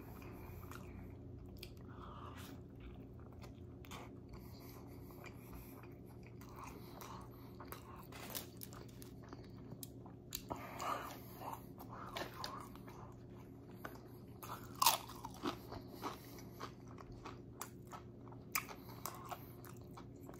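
Close-up chewing of a mouthful of food, with wet mouth clicks and smacks that get busier about halfway through and are loudest around three-quarters of the way in. A steady low hum runs underneath.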